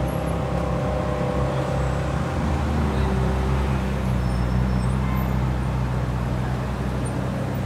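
Ferrari engine running slowly at low revs, a steady deep rumble that grows stronger about two seconds in.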